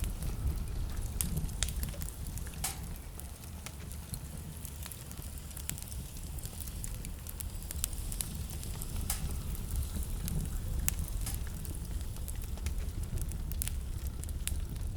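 Wood fire burning in a fireplace, crackling and popping in irregular sharp snaps over a low, steady rumble.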